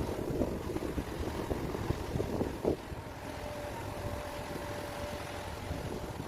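Heavy mining machinery's diesel engines running, with wind buffeting the microphone. There are a few knocks in the first half, and a steady whine for a couple of seconds in the second half.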